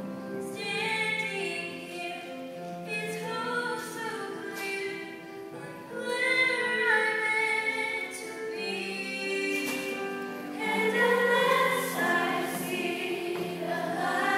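Choir singing, a female solo voice with the choir, over a steady low accompaniment note.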